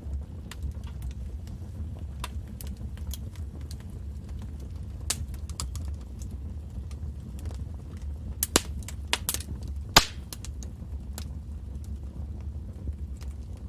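Fireplace fire crackling: irregular sharp pops and snaps over a low steady rumble, with a quick flurry of pops past the middle and one loud snap about two-thirds of the way through.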